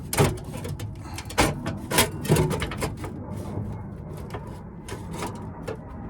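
Irregular clanks and knocks of metal parts and tools being handled, several sharper ones scattered through, over a steady low hum.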